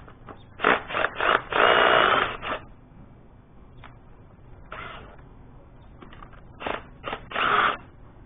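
A power tool run in short bursts: several quick bursts and one longer run about a second and a half in, then a single short burst, then another cluster of bursts about five seconds later.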